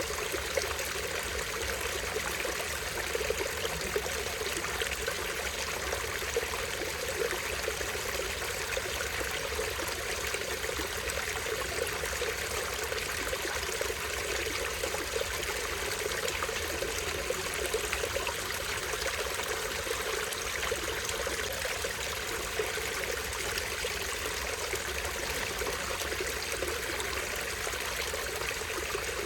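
Small stream splashing over a tiny waterfall, a steady splashing and trickling with no change.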